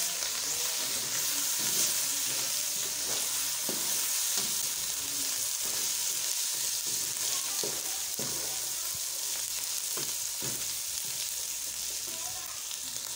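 Chicken pieces, onions and whole spices sizzling in hot oil in a pot, being stir-fried (bhuna) with a plastic spatula. A steady frying hiss runs throughout, with occasional short scrapes and knocks as the spatula works against the pan.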